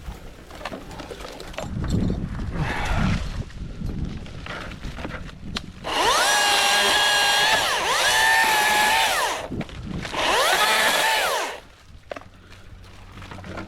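Milwaukee battery top-handle chainsaw whining up to speed and winding down three times in quick succession, the electric motor's pitch rising at each start and falling at each stop. Rustling and knocking noises come before it.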